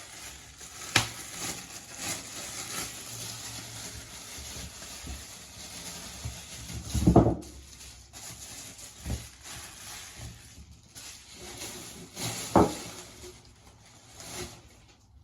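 Scattered knocks and thumps of things being handled and set down, over a faint steady hiss. The loudest is a low thump about seven seconds in, with a sharper one a little after twelve seconds.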